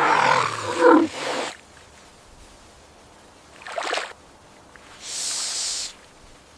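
A large animal's loud pitched call in the first second and a half, then a short rough burst about four seconds in and a hiss lasting about a second after that.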